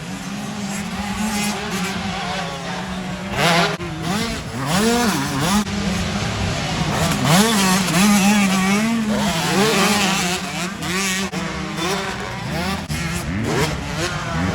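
Several motocross bikes racing, their engines revving up and down through the gears with many overlapping rising and falling whines over a steady low drone.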